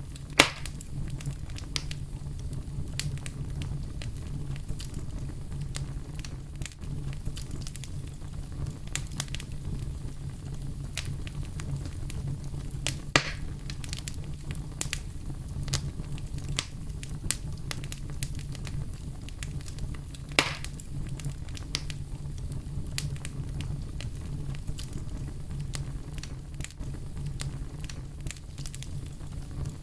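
Wood fire burning in a fireplace, a steady low rumble of flames with frequent sharp crackles and pops, three of them louder: about half a second in, near the middle, and about two-thirds of the way through.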